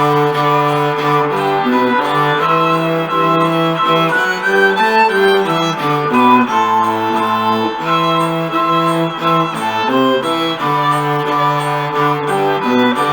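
Cello playing a folk-style melody in bowed notes along with a recorded accompaniment track of strings.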